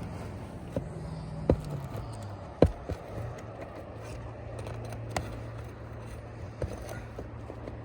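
A few sharp knocks and scrapes of work on an asphalt-shingle roof, from footsteps and hand tools, with the loudest knock a little before the middle. A steady low engine hum runs underneath and drops in pitch about two seconds in.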